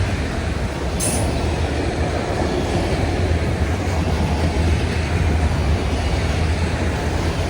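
Freight train cars rolling past with a steady low rumble of wheels on rail, with a brief sharp high click from the wheels about a second in.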